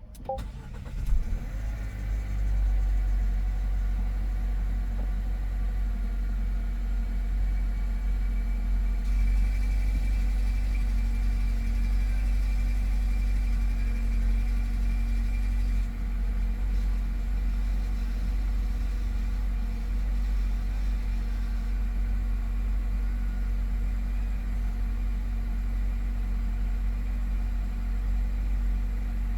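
Nissan Qashqai 1.3-litre turbo petrol four-cylinder starting from cold about a second in, then idling steadily.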